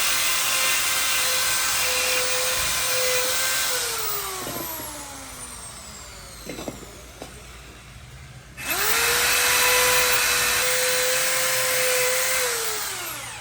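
An electric power tool runs at a steady high speed, then winds down with falling pitch about four seconds in. After a few light clicks it starts again near nine seconds in, runs steadily and winds down again near the end.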